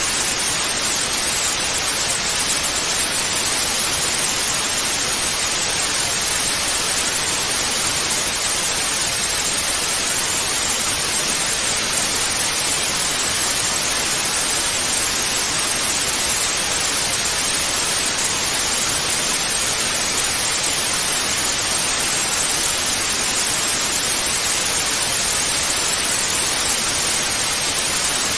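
Television static hiss (white noise): a steady, even hiss, brighter in the high end than in the low, that does not change.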